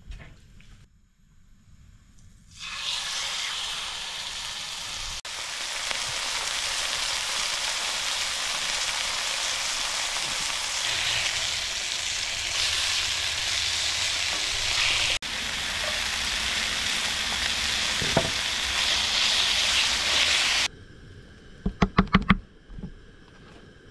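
Food sizzling in a hot pan: a loud, even hiss that starts suddenly a few seconds in and cuts off abruptly near the end. Then comes a quick run of about five sharp knocks.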